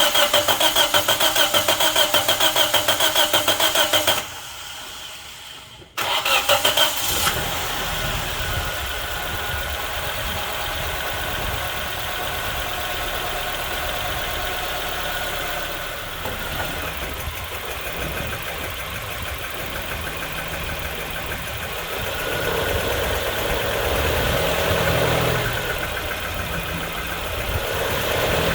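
The 1.8-litre four-cylinder QG18DE engine of a Nissan Pulsar N16 is cranked by its starter for about four seconds without catching. After a short pause it is cranked again, catches within a second or so, and then runs at a steady idle.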